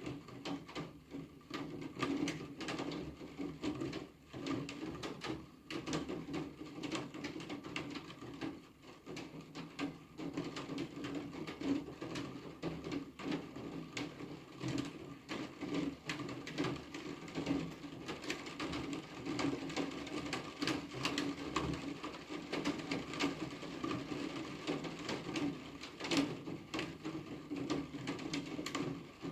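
Rain falling steadily, a dense run of irregular drops tapping on a hard surface.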